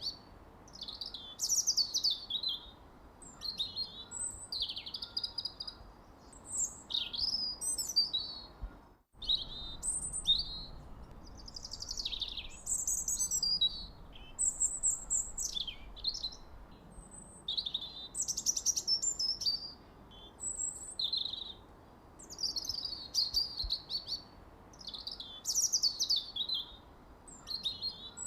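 A songbird singing short, quick chirping phrases, many of them sweeping downward in pitch, one after another about every second. The sound cuts out for an instant about nine seconds in.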